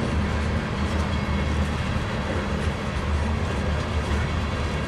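Coal train cars rolling slowly past on the rails: a steady low rumble with faint repeated clicks from the wheels.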